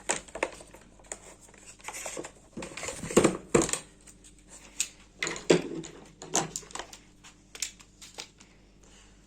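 Irregular clicks and knocks of hard plastic and metal parts as a vacuum cleaner's spring assembly is unfastened and pulled out by hand. The loudest knocks come about three seconds in and again about five and a half seconds in.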